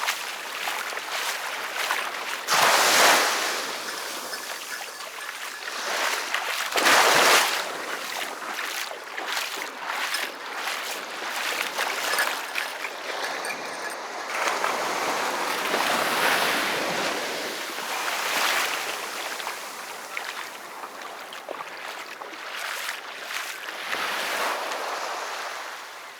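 Sea waves breaking and washing up the beach in repeated surges, the loudest about three and seven seconds in.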